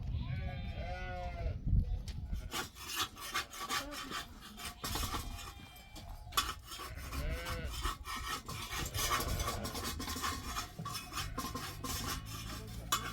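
Sheep bleating, one long bleat at the start and a shorter one about seven seconds in, over a dense patter of clicks and rustling from the flock moving and grazing.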